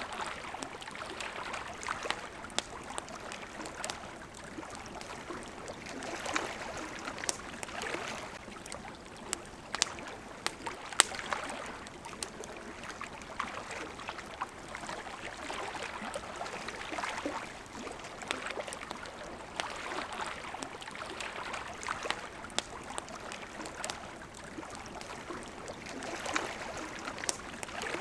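Small waves lapping at the water's edge, swelling and falling every couple of seconds, mixed with the sharp pops and crackles of a wood campfire.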